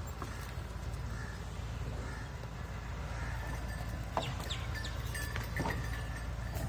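Farmyard animal sounds: a few faint short calls over a steady low rumble, with a couple of sharp knocks in the second half.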